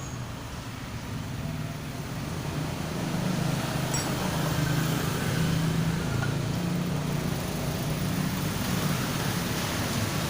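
Steady motor-vehicle noise: a low engine hum over road noise, growing louder about three seconds in and then holding.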